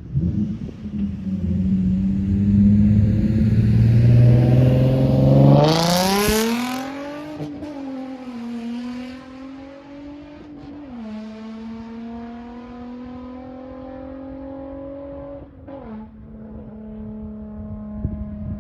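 Infiniti G35's 3.5-litre V6 exhaust, with muffler and resonator deleted, running loud and low for the first few seconds, then revving up sharply about six seconds in. It then carries on more faintly, its pitch climbing slowly and dropping back a few times, like upshifts as the car pulls away.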